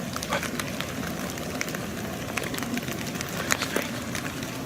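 Footsteps crunching through leaves and twigs on a forest floor, irregular crackles over a steady outdoor hiss.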